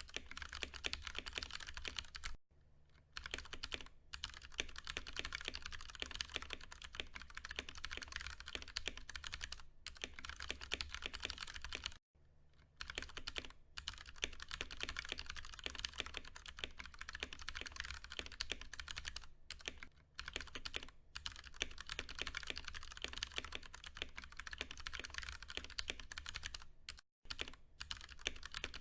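Fast, continuous typing on a Ducky One 2 Mini mechanical keyboard with Cherry MX Brown switches: a dense stream of key clacks, broken by a few short pauses.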